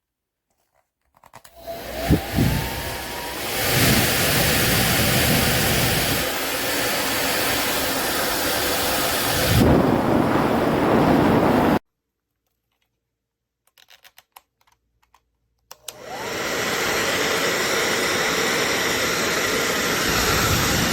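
Wavytalk ionic hair dryer switched on and blowing with a steady rush of air, a motor whine rising as it spins up. It cuts off suddenly about halfway through, a few clicks follow, and it starts up again soon after.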